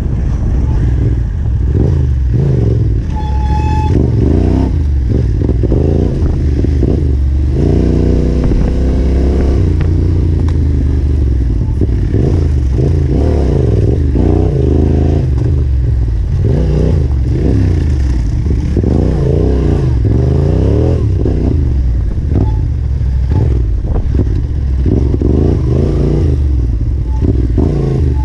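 Yamaha Ténéré 700's parallel-twin engine revving up and down again and again as the bike is ridden over rough single track, with rattling and clatter from the bike over the terrain.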